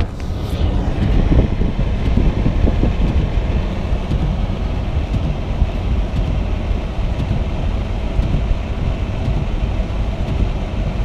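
Steady low rumble of a car heard from inside the cabin: engine and road noise while driving slowly.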